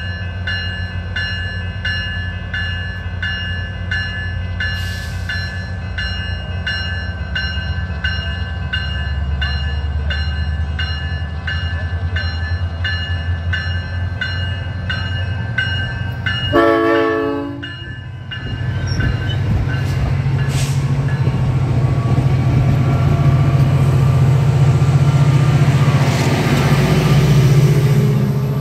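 SunRail commuter train with an MPI MP32PH-Q diesel locomotive rumbling, while a bell rings about twice a second. About 17 s in the horn gives one short blast, then the engine sound builds louder.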